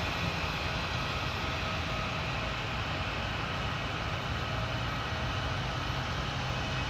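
Jet airliner engines running steadily with a low rumble and a faint steady whine.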